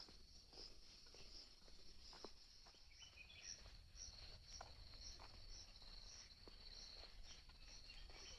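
Faint insect chorus: a steady high buzz, with a pulsing chirp about twice a second joining a few seconds in, over soft scattered footsteps on a trail.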